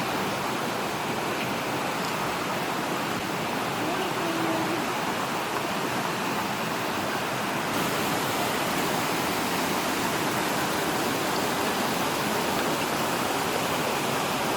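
Waterfall rushing steadily, an even, constant roar of falling water.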